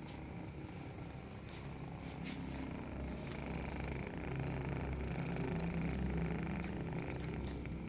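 Nursing kitten purring steadily, a low continuous rumble that grows louder a few seconds in.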